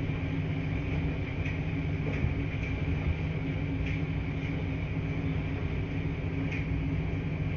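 Laundry machines running with a steady low hum and rumble, with faint light clicks every second or two.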